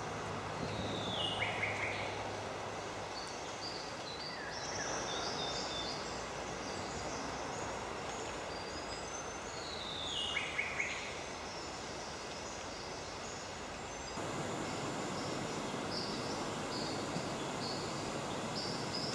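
Birds calling: twice, a whistle that falls in pitch and then breaks into a quick run of notes, among many short high chirps over a steady hiss. The background changes abruptly about fourteen seconds in.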